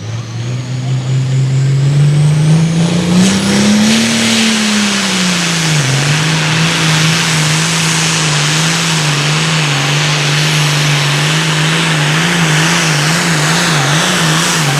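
Super Farm class pulling tractor's turbocharged diesel engine under full load on a pull: the pitch rises over the first few seconds, drops back about five seconds in as the sled bites, then holds steady, wavering up and down near the end.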